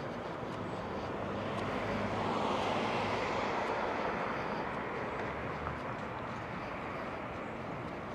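A vehicle passing: a rush of noise that swells to a peak about three seconds in and then slowly fades.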